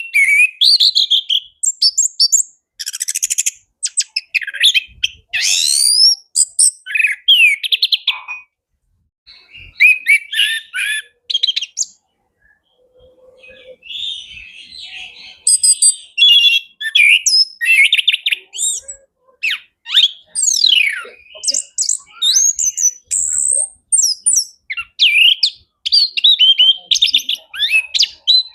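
Orange-headed thrush (anis kembang) singing in full voice: a fast, varied stream of whistles, chirps, downward sweeps and rapid trills, packed with mimicked phrases. There are two short pauses, one about a third of the way through and one near the middle.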